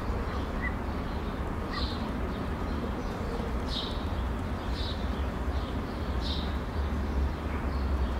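Outdoor ambience: a steady low rumble with a bird chirping, short high chirps repeating every one to two seconds.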